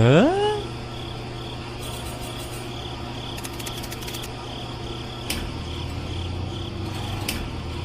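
Crickets chirping steadily over a low hum, the chirps repeating a couple of times a second. A quick rising swoop sound comes right at the start.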